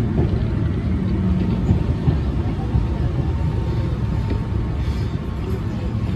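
Keihan Ishiyama-Sakamoto Line electric train running along the track, heard from inside the front cab: a steady low rumble of wheels on rails, with a faint steady whine.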